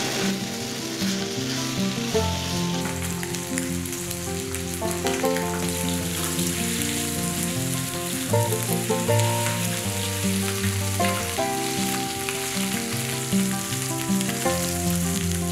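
Boneless chicken thighs sizzling in a dry nonstick frying pan with no oil added, a steady frying hiss. Background music with a melody plays over it.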